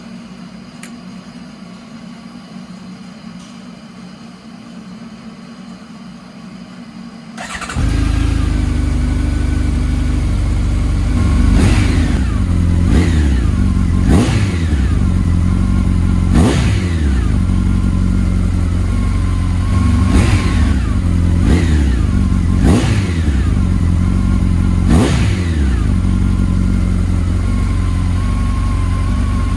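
Honda CB1300SF's inline-four engine starting up about seven seconds in, on its freshly replaced battery, then idling with about eight quick throttle blips, the revs rising and falling back each time. Before it starts there is only a quiet steady background hum.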